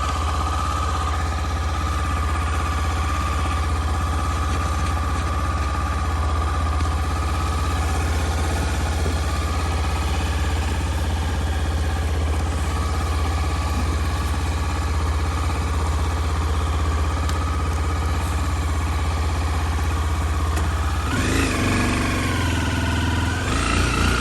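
Motorcycle engine idling steadily, then revving with rising pitch in the last few seconds.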